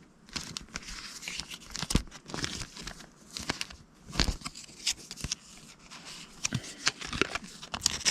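Paper cards and sheets being handled at close range: irregular crinkling and rustling with small clicks and taps.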